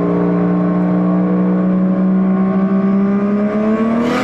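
Car engine running at steady, fairly high revs, its pitch climbing in the last moments.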